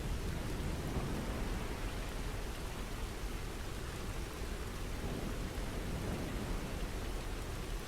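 Steady rain falling, an even hiss of rain with a deep low rumble and no breaks.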